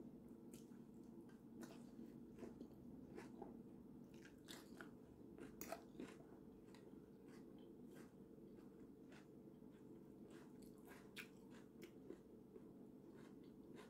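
Faint chewing of salad: scattered soft crunches and mouth clicks over a low steady room hum.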